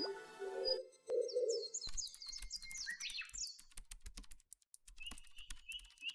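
A small bird chirping in quick, high, descending notes, with a patter of light clicks throughout.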